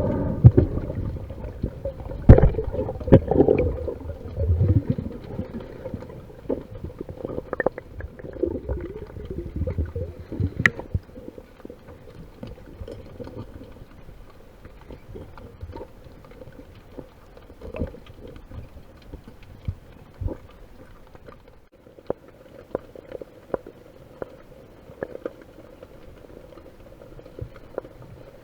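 Underwater sound in heavy storm surge: low rumbling and gurgling of churning water with scattered sharp clicks and knocks, busiest in the first ten seconds, then quieter with occasional clicks.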